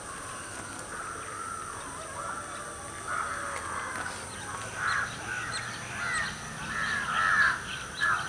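Birds calling: many short, overlapping calls, few at first and busier from about three seconds in.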